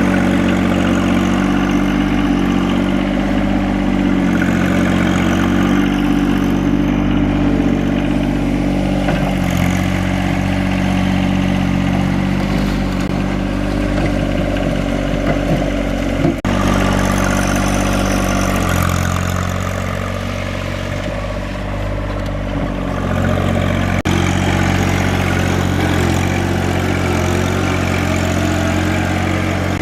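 Tractor engine running steadily, its speed shifting up or down a few times as it works. One sharp click partway through.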